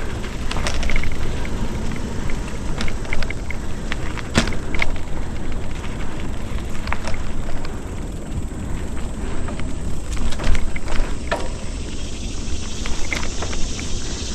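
Mountain bike moving along a dirt trail: a steady low rumble of wind and tyre noise on the microphone, with scattered clicks and rattles from the bike.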